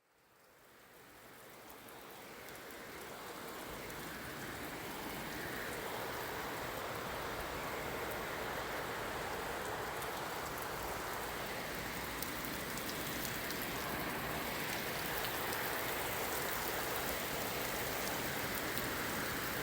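Steady rain falling, fading in over the first few seconds and then holding even, with faint ticks of individual drops.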